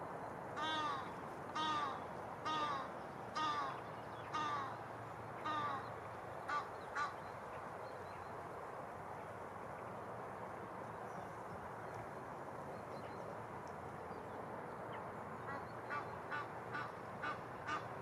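A bird calling over the steady hush of the river: six evenly spaced calls about a second apart at the start, two short ones after, and a quicker run of short calls near the end.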